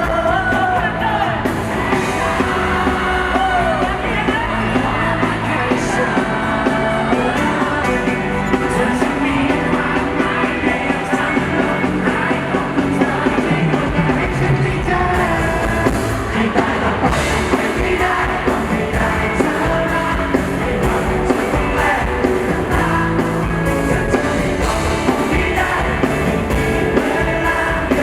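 Live band playing a pop-rock song with a singer, loud and amplified.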